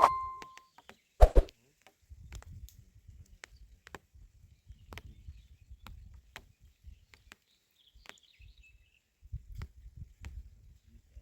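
A bell-like chime fading out, then one loud thump about a second in, followed by scattered light footsteps and knocks over a low rumble, with a few faint bird chirps near the middle.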